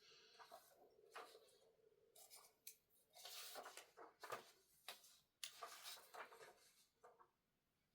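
Faint desk-handling sounds: irregular scraping and rustling strokes with scattered clicks, busiest in the middle, as things are handled and moved on a desk.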